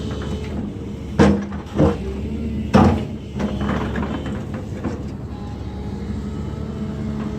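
Earthmoving machine's engine running steadily, with three loud clanks in the first three seconds.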